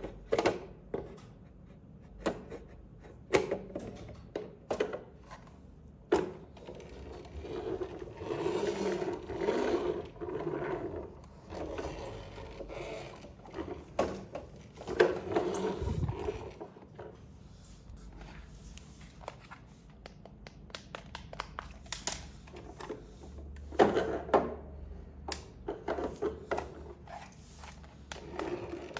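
Handling sounds of unboxing toys: irregular clicks and knocks, with stretches of scraping and rubbing.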